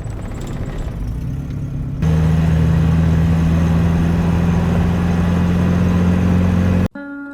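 Car engine running while driving on a rough mountain track. About two seconds in it jumps to a louder, steady drone and holds it, then cuts off suddenly near the end.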